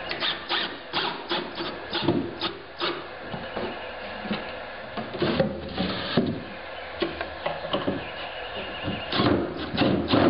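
Plywood cabinet parts being handled during carcass assembly: irregular wooden knocks, taps and rubbing as panels and supports are set and slid into place.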